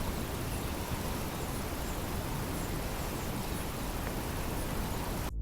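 Steady outdoor background noise, an even hiss across all pitches with no distinct event, cut off abruptly near the end.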